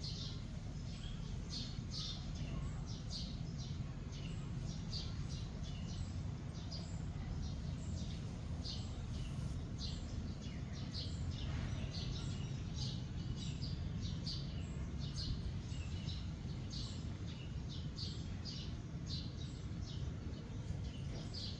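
Birds chirping: short high chirps repeating about twice a second, over a steady low background rumble.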